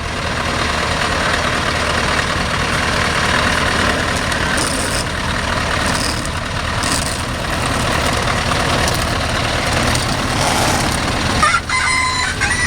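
Heavy trucks of a convoy driving past, their diesel engines and tyres making a steady, loud rumble and rush. Near the end a truck horn sounds briefly.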